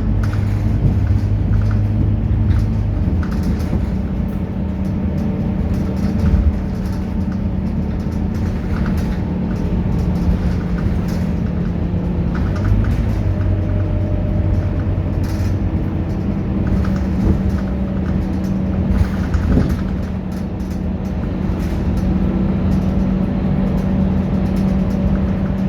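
Scania K230UB bus's diesel engine running, its engine note changing pitch several times as it speeds up and settles back.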